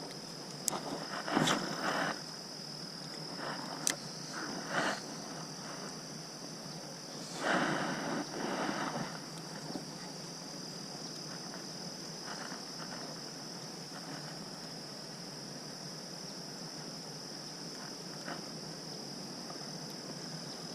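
Insects droning steadily at a high pitch. A few short rustles and clicks come in the first half, the longest about seven to nine seconds in.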